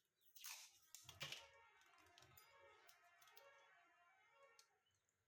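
Near silence with a faint scraping rustle and a few small clicks about a second in.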